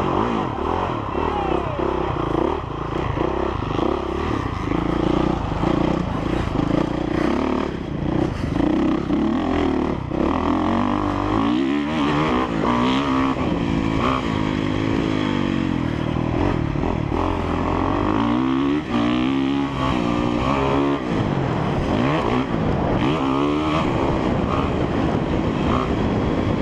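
2017 Honda CRF450R's single-cylinder four-stroke engine under way on a motocross lap, its pitch rising and falling again and again as the throttle is opened and closed through corners and jumps.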